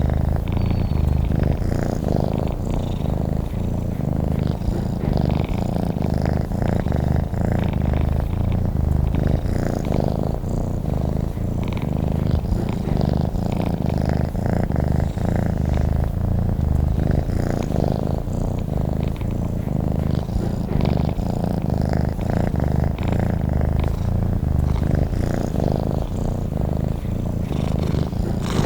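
Domestic cat purring steadily and continuously, a low rapid pulsing with no breaks.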